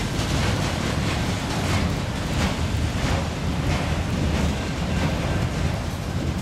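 Freight train cars rolling past with a steady rumble, their wheels clicking over rail joints about every half second.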